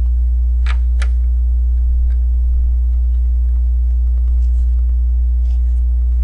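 Steady low electrical hum, like mains hum on the recording, with small plastic clicks of LEGO pieces being handled and placed: two about a second in, and a few fainter ones later.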